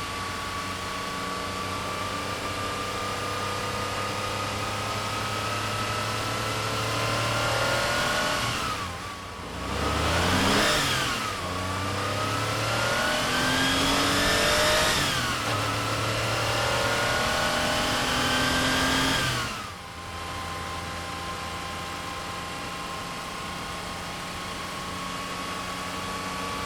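1976 Porsche 911S with a 3.2-litre air-cooled flat-six running under way, its note climbing slowly at first. From about nine seconds in it pulls hard through three or four quick rises in revs, each cut off by a short drop like a gearchange. At about twenty seconds it backs off to a steadier, lower cruising note.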